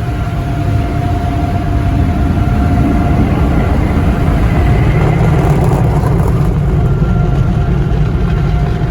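Automatic car wash drying blowers blasting air over the car: a loud, steady rush that builds over the first few seconds and then holds, with a faint steady whine above it.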